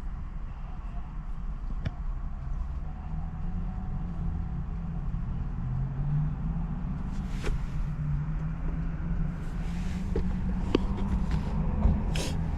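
Low, steady rumble of a motor vehicle, with a few sharp clicks late on.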